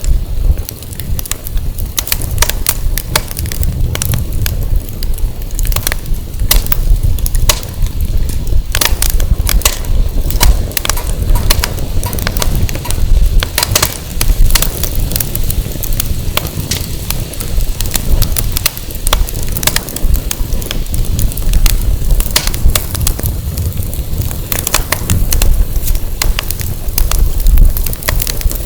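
Firewood burning in a fire pit, crackling with frequent sharp pops, over a steady low rumble of wind on the microphone.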